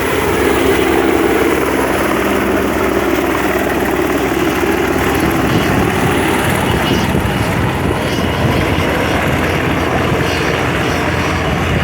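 Helicopter running steadily in flight, a continuous loud rotor and engine noise whose tone shifts to a deeper rumble about halfway through.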